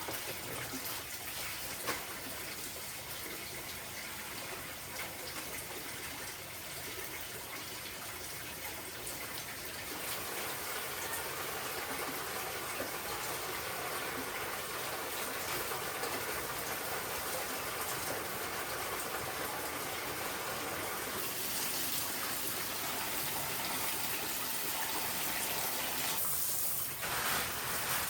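Water running steadily, as from a tap, its flow growing fuller about ten seconds in and again about twenty seconds in.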